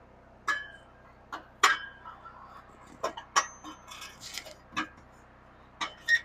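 Irregular light metallic clinks and knocks, some ringing briefly, as pieces of tack-welded stainless steel exhaust tubing are handled and knocked together.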